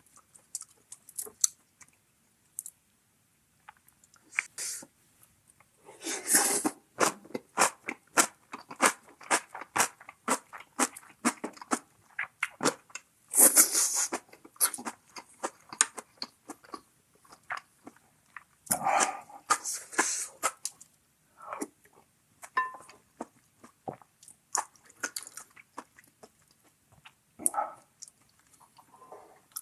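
Close-miked eating: wet chewing and crunching in a dense run of short clicks, with louder noisy stretches about six, thirteen and nineteen seconds in.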